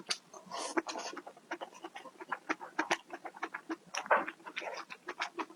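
A person eating close to the microphone: irregular chewing and mouth clicks with a few short slurping or smacking bursts, about a second in and about four seconds in.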